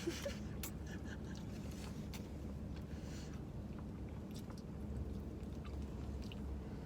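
A person chewing a bite of fettuccine alfredo with broccoli: faint, scattered wet mouth clicks over a steady low background hum.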